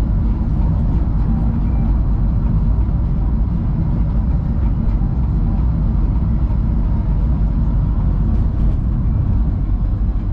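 Loud, steady low drone of road and engine noise inside the cabin of a moving BMW E36.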